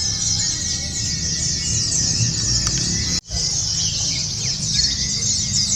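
Many white-eyes (pleci) singing at once, a dense high twittering of quick overlapping chirps over a low background rumble. The sound cuts out for an instant about three seconds in.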